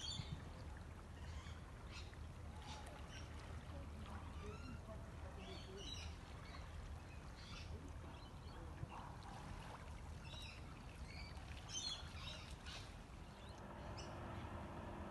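Birds chirping in short, scattered calls over a low, steady rumble. A steady hum comes in near the end.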